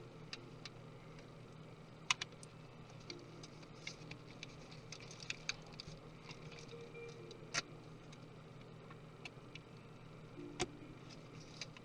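Scattered small clicks and taps at uneven intervals, a few of them sharper, with brief squeaks between: small tools and parts being handled while a MacBook Pro laptop is taken apart. A steady low hum runs underneath.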